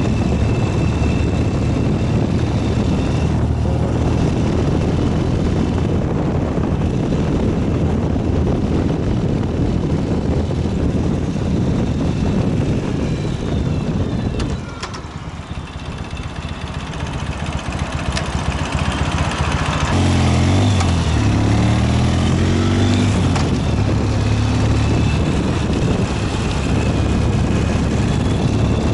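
Ural 750 motorcycle's flat-twin engine running under way, with road and wind noise. The engine note drops away about halfway through, then picks up again with rising pitch as it accelerates.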